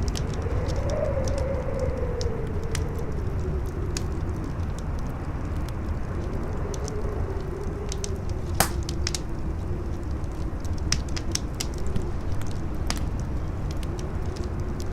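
Campfire crackling with scattered sharp pops, one louder pop a little past the middle, over strong wind howling in a low tone that rises and falls, with a steady low rumble.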